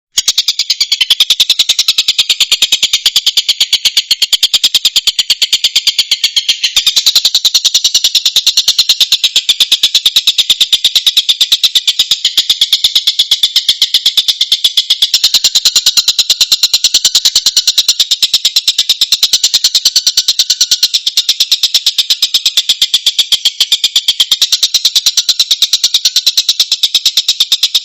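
Collared kingfisher (tengkek buto) calls: a loud, fast, unbroken run of harsh repeated high notes that starts and stops abruptly, as on a looped bird-training recording.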